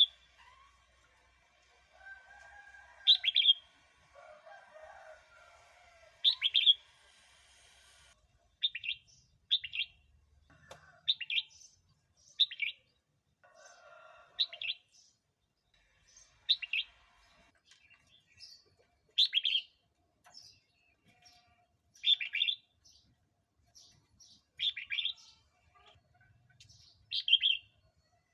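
Red-whiskered bulbul singing: short, bright, warbled phrases repeated about every one to three seconds. Fainter, lower calls sound in the first several seconds.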